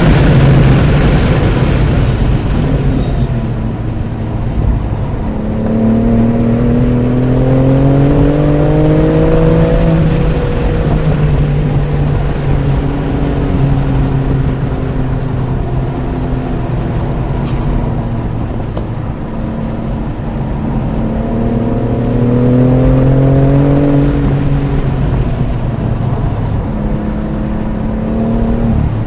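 BMW F80 M3 Competition's twin-turbo straight-six under hard acceleration on track, its pitch climbing through the revs several times and falling back as the driver lifts or shifts, over a steady rush of wind and tyre noise.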